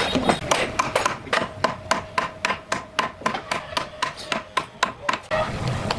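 Rapid, even hammer taps on wood, about four a second, each with a short ring, stopping a little after five seconds in.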